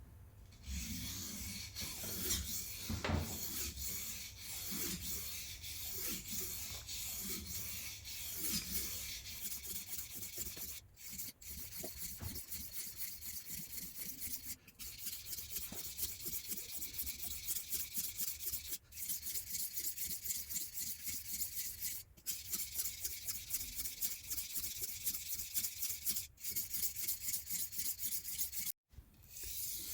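Knife blade being sharpened: quick, rhythmic rasping strokes of steel against a sharpener, with short breaks every few seconds.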